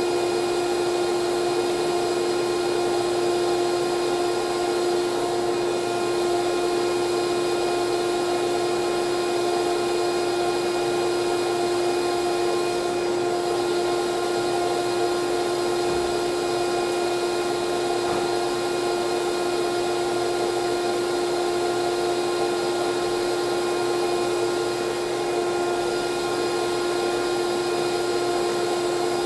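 Vacuum running steadily, a constant pitched whine that holds unchanged throughout.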